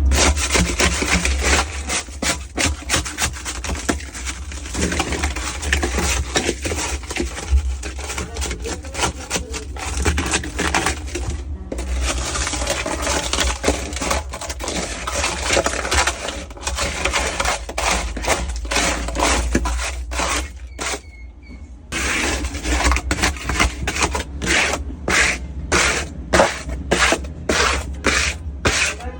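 A cleaning tool scraping and scrubbing inside a refrigerator in quick repeated strokes, with a lull about two-thirds of the way through, over a steady low hum.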